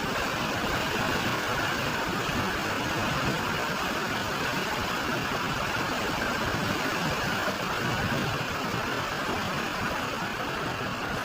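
Steady rush of floodwater pouring down a swollen waterfall, an even noise with no breaks.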